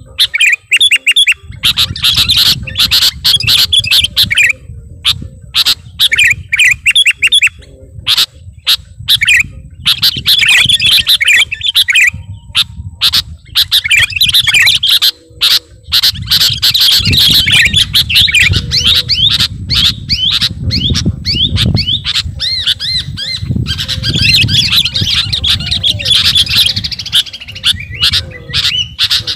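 Sooty-headed bulbul (kutilang) singing loudly and persistently: rapid strings of bright chattering notes and sharp calls, in phrases broken by short pauses.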